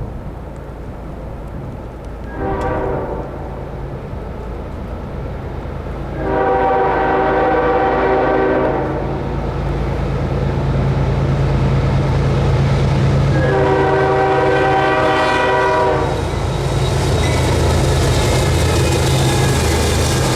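Diesel freight locomotive sounding its multi-note air horn: one short blast about two seconds in, then two long blasts of about three seconds each, over the steady low rumble of the train.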